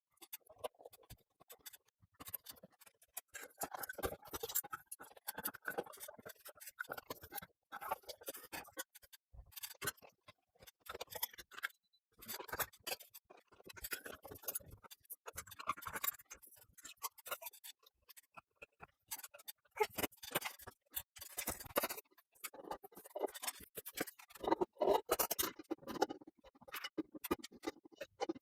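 Irregular clicks, ticks, taps and scraping from hands and tools working on a ceiling fan during installation. The noises come in clusters with short gaps between them.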